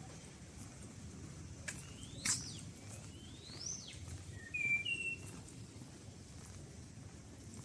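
Small birds calling: a few sharp chirps about two seconds in, two rising whistled notes, then a couple of short high notes around the middle. Under them runs a steady low outdoor hum.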